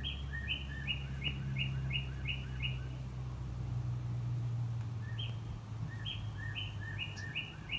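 A songbird singing a fast repeated two-note phrase, about three phrases a second, in two bouts with a pause of about two seconds between them. A steady low hum runs underneath.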